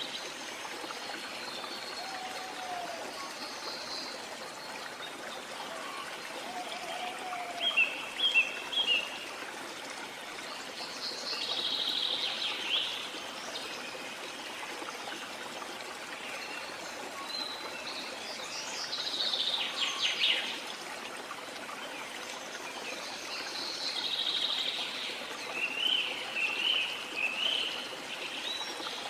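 Waterfall rushing steadily, with birds chirping in short bursts of calls every few seconds over the water.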